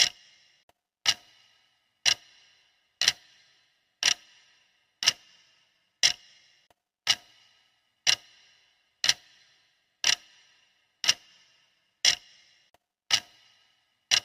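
Clock ticking steadily, one sharp tick each second with a short ringing tail.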